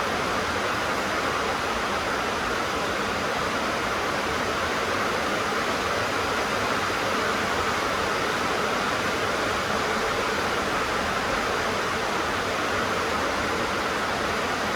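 Rain falling on a tin roof: a steady, even hiss with no breaks.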